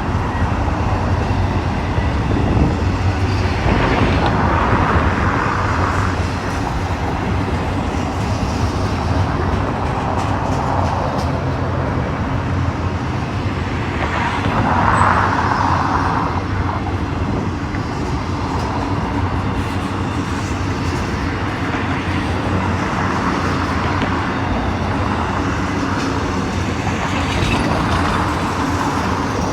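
Long intermodal freight train rolling past: a steady rumble of steel wheels on rail, with a few swells of higher wheel noise along the way.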